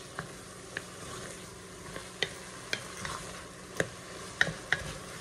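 Ground turkey with green onions and taco seasoning sizzling in an enameled pot while a wooden spoon stirs it. The spoon knocks and scrapes against the pot in about ten sharp, irregular clicks over the steady sizzle.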